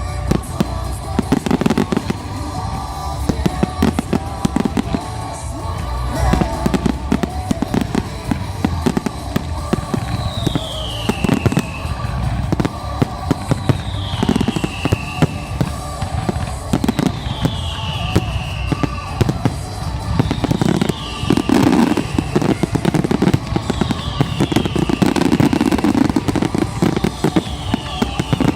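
Professional fireworks display: a dense run of bangs and crackling shell bursts throughout, with music playing underneath.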